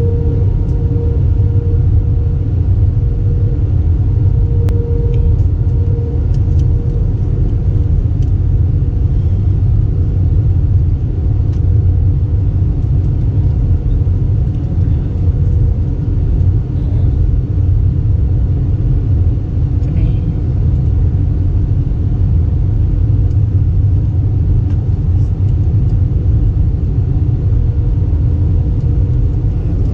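Airbus A320 cabin noise in flight: a steady, loud low rumble from the engines and airflow, with a few steady hum tones over it.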